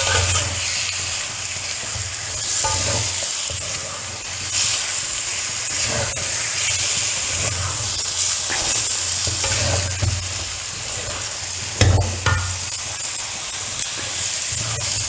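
Chicken pieces sizzling and frying in spiced masala in a kadai while a spoon stirs them, scraping along the pan every second or two. A sharper knock of the spoon against the pan comes about twelve seconds in.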